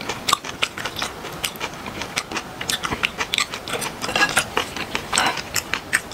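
Close-miked chewing of a mouthful of noodles: a quick, irregular run of wet mouth clicks and smacks.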